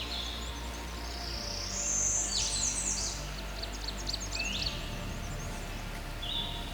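Wild songbirds singing: a short high whistled note that steps down in pitch repeats every few seconds, and a busier run of quick high chirps and sliding notes comes in the middle, over a steady low background hum.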